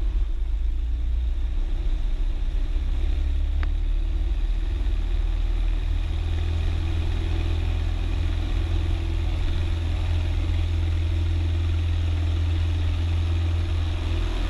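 Cessna 172's piston engine running steadily at low power on the ground, heard from the cockpit, with one brief click a few seconds in.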